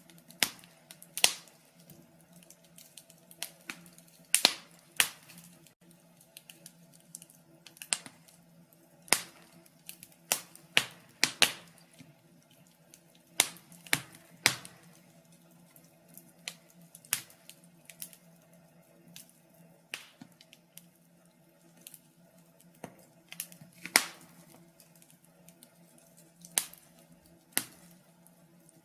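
Wood fire crackling in a fireplace: irregular sharp pops and snaps, some much louder than others.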